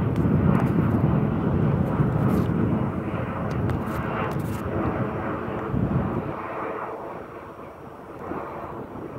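Departing jet airliner's engines, a loud, rumbling roar that fades away steadily as the plane climbs out, dropping off noticeably after about six seconds. A few faint clicks come in the middle.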